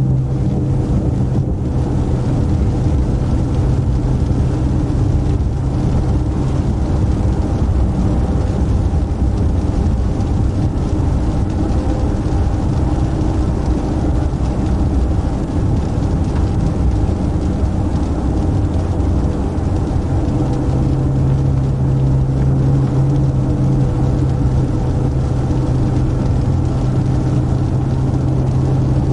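Steady road and engine noise inside a moving car's cabin: a continuous low hum over tyre rumble, the hum growing stronger about two-thirds of the way through.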